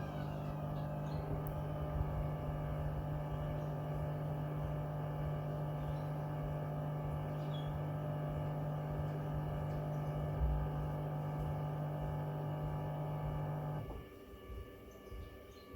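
Hoover washing machine running with a steady motor hum and overtones, then cutting off abruptly about 14 seconds in.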